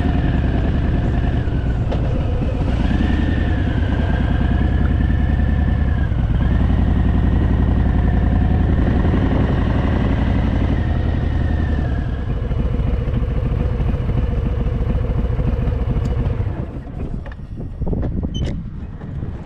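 Harley-Davidson Fat Boy V-twin engine running as the bike is ridden, its pitch climbing and dropping back a few times. Near the end the engine sound falls away and a few sharp clicks follow.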